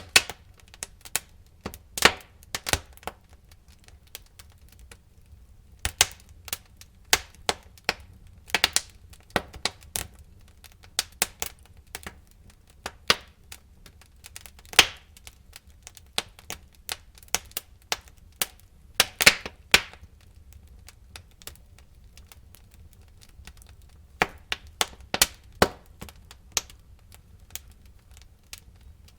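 Burning wood in a fireplace crackling, with irregular sharp snaps and pops over a faint low rumble of the fire, thinning out twice into quieter spells.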